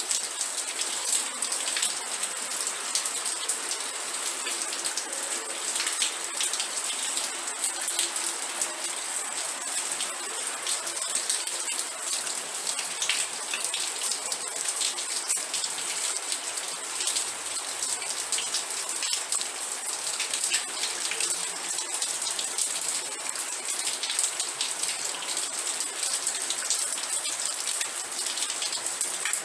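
Steady rain falling, with dense close drop patter on a surface.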